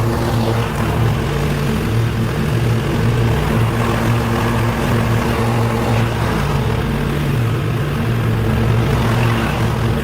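Small gasoline engine of lawn-care equipment running steadily at a constant speed, with a low, even hum.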